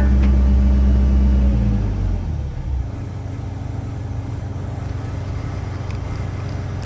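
1997 Link-Belt 2700 excavator's diesel engine running at high throttle, then dropping to a lower, quieter idle about two seconds in, as the machine finishes crossing the swamp.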